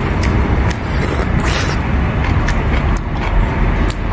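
Steady road traffic noise with a low rumble, and light clicks and taps scattered through it.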